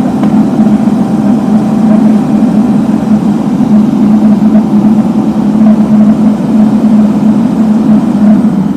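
Heavy road-construction machine engine running steadily close by, a constant low drone with no change in pitch.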